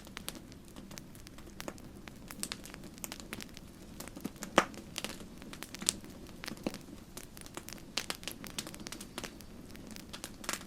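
Campfire burning: a steady low rumble with dense, irregular crackles and pops of burning wood. The sharpest pop comes about four and a half seconds in.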